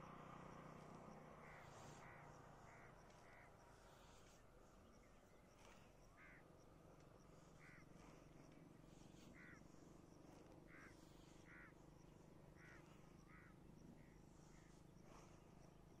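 Near silence with faint bird calls: a dozen or more short calls, some in quick runs of two or three.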